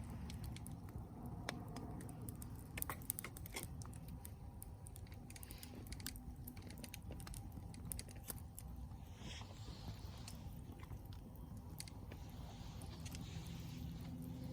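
Wood campfire crackling, with irregular sharp pops and snaps over a low steady background. A soft hiss rises briefly about nine seconds in and again near the end.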